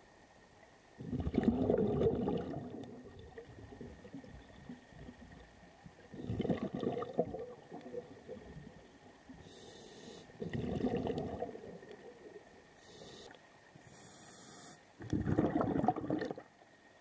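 Scuba diver breathing underwater through a regulator: four gurgling bursts of exhaled bubbles a few seconds apart, with short hissing inhalations through the regulator before the last two.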